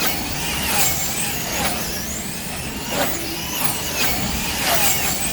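Several electric wing slot cars racing, their motor whines rising and falling in pitch over and over as the cars speed up and slow down round the track, with a few sharp clacks.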